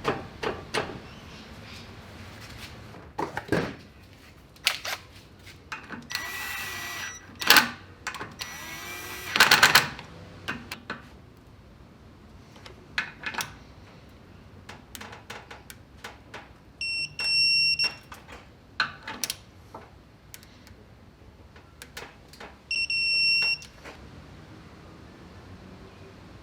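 Hand tools handled during bearing-clearance measurement on an engine bottom end: scattered metallic clicks and knocks, two short loud bursts of rushing noise, and two high electronic beeps near the end, the first about a second long and the second shorter.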